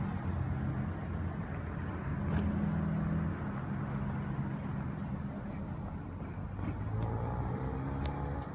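Mini Cooper drag car's engine running at low revs as it is driven slowly around a lot, with the revs rising near the end.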